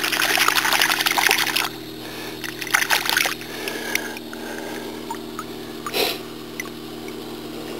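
Water splashing and trickling in two bursts: a longer one over the first couple of seconds and a shorter one about three seconds in, then a single sharp knock about six seconds in, over a steady low hum.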